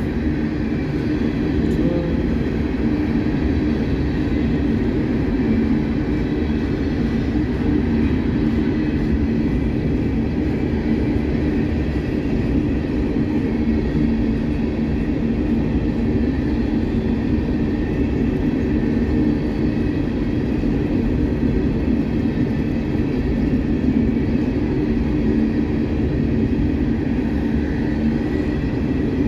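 Loaded Herzog ballast hopper cars of a freight train rolling past on steel rails: a steady, unbroken rumble of wheels on track.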